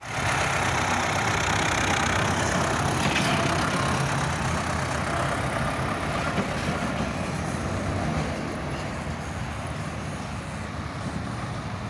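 Ford tractor's diesel engine running steadily, a little quieter in the second half.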